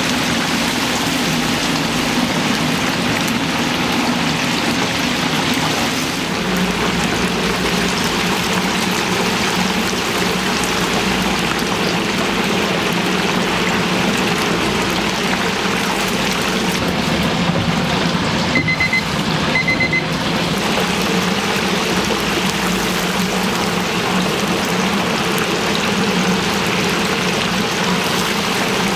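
Chicken deep-frying in a vat of hot oil: a steady, loud sizzle. About two-thirds of the way through, two short pairs of electronic beeps sound.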